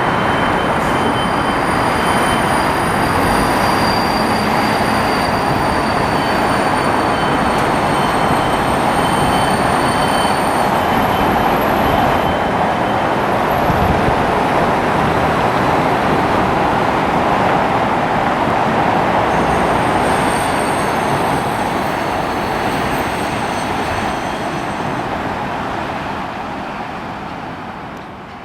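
Jet airliner's engines passing close by: a loud rushing noise with thin high whining tones that slide slowly lower, fading away over the last few seconds.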